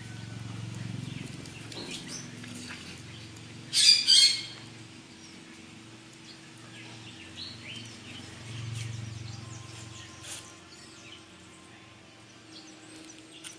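Bird chirping and calling in short scattered notes, with a loud two-part call about four seconds in, over a faint steady low hum.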